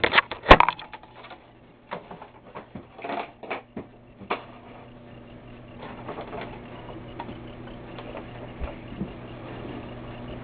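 Camera being set down with a few sharp knocks, followed by scattered light clicks and knocks of handling nearby. A steady low electrical hum runs underneath.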